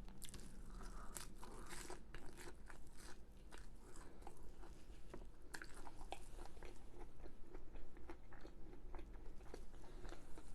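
Close-miked chewing and biting of crunchy food, with a run of small, irregular crisp crunches throughout.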